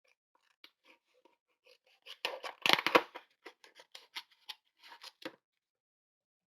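Scissors snipping through magazine paper in a quick run of short cuts, loudest about three seconds in, with light paper handling.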